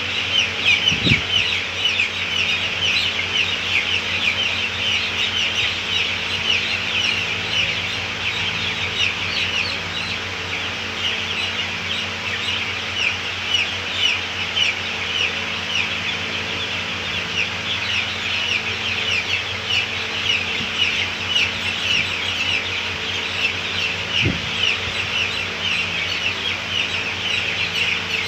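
A large flock of farm chickens chirping and clucking continuously, many calls overlapping, over a faint steady low hum.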